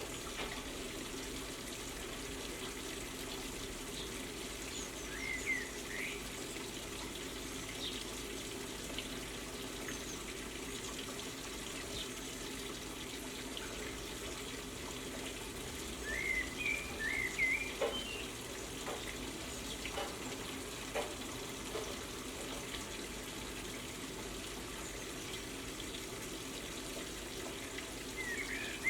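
Small garden birds chirping in a few short runs, about five seconds in, again around sixteen to eighteen seconds, and near the end, over a steady background hiss.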